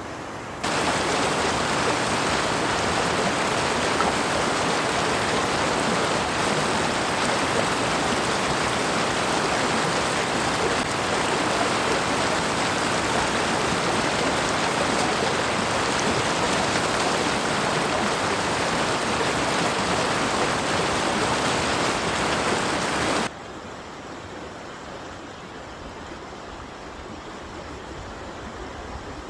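Steady, loud hiss of water, like a flowing stream or heavy rain, that starts suddenly about half a second in and cuts off suddenly near the end, dropping to a much quieter steady outdoor hiss.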